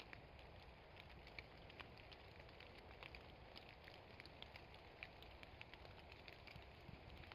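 Rain falling through a woodland canopy: faint, irregular drips and pattering over a low, steady hiss.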